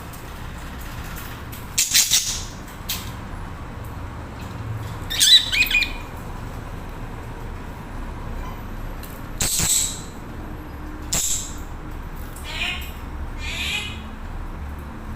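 Budgerigars chirping and chattering in short separate bursts a few seconds apart, one a rapid warbling chatter, over a steady low background hum.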